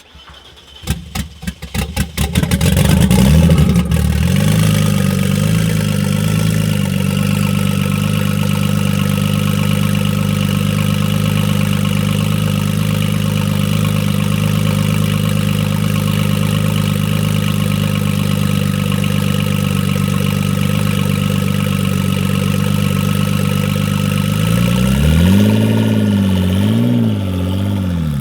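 Tuned Audi S4 B5's 3.0-litre biturbo V6 starting up, firing roughly for about three seconds before settling into a steady idle with a faint high whine. Near the end it is revved up and down twice.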